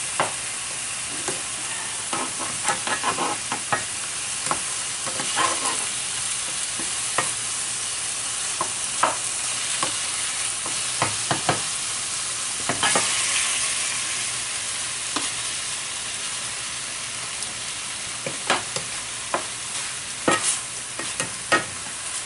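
Strips of filet mignon sizzling as they sear in hot olive oil in a pan, a steady hiss with scattered sharp pops and the taps of a utensil turning the meat.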